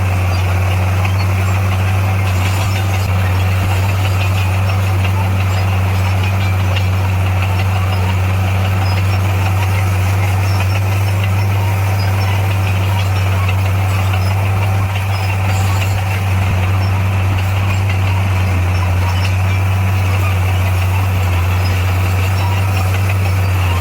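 Diesel engine of an SDLG motor grader running steadily, with a constant deep hum.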